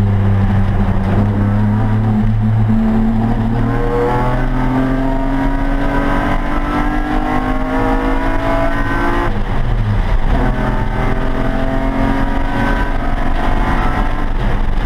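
Race car engine heard from inside the stripped, caged cabin. It holds fairly steady revs through a corner, then pulls up through the revs under acceleration. It upshifts about nine seconds in and climbs again.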